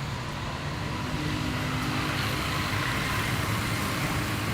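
Street traffic with a motor vehicle running close by, its engine note growing slightly louder about a second in.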